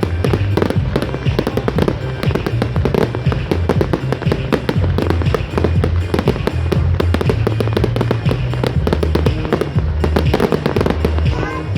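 Fireworks crackling and banging in rapid, dense succession over music with a heavy bass line.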